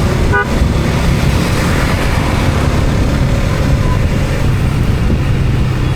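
Steady low rumble of a road vehicle under way, with a short horn toot less than half a second in.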